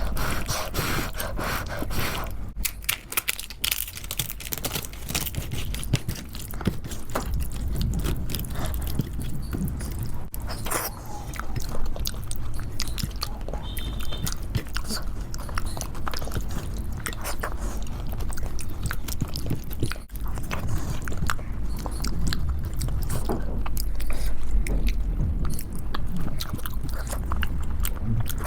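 Close-miked chewing and wet mouth sounds of someone eating khichdi, with many small smacks and clicks.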